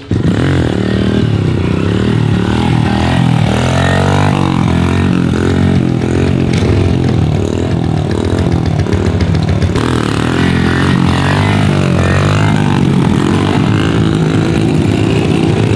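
Small single-cylinder pitbike engine running and being revved up and down, with voices underneath.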